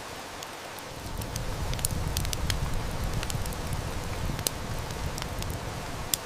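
Heavy rain hissing steadily while a wood fire crackles, with several sharp snaps. A low rumble of distant thunder swells about a second in and dies away near the end.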